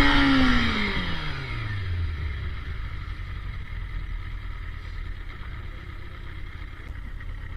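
Kawasaki ZZR400 inline-four engine at the top of a single throttle blip, its pitch falling back over about two seconds and settling to a low idle.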